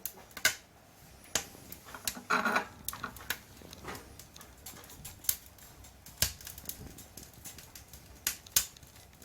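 Irregular sharp clicks and knocks, a dozen or so, with a short scraping or creaking sound about two seconds in.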